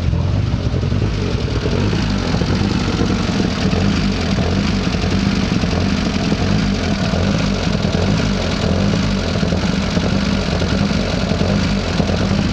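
Mitsubishi Evo 3 rally car's turbocharged four-cylinder engine idling steadily after its first start. The owner takes this idle for one that cycles cylinders off to keep the engine cool.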